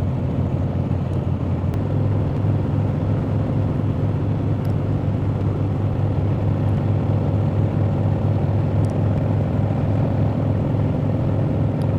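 Harley-Davidson V-twin motorcycle engine running steadily at road speed, a low even drone with road and wind noise over it.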